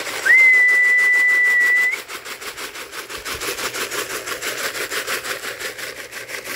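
A person whistling one long steady note, about two seconds, to call a returning racing pigeon down to the loft. A fast, even rustling pulse of about ten a second goes on after the whistle stops.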